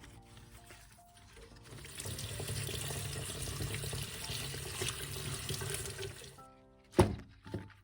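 Water running from a tap into a sink as a steady rush, starting about two seconds in and stopping after about four seconds. Soft background music plays before and after it, and a single sharp knock comes near the end.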